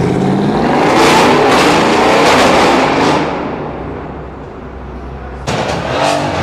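Mercedes-AMG car accelerating hard with a loud exhaust, the engine note rising in pitch, then fading as it pulls away. About five and a half seconds in, a loud burst of engine sound starts suddenly.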